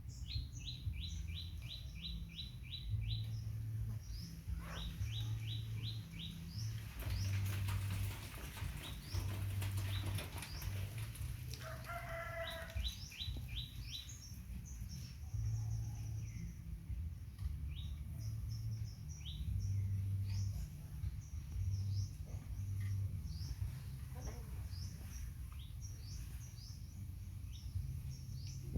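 Small birds chirping in repeated quick runs of short falling notes, about eight a second, over a steady low rumble. A short clucking call sounds about twelve seconds in, and a stretch of rustling noise runs from about seven to eleven seconds.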